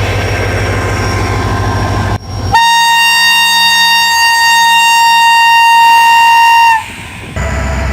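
Train running with a low steady rumble, then a diesel locomotive's air horn gives one long steady blast of about four seconds, sagging slightly in pitch as it stops. The running noise drops away around the blast and returns near the end.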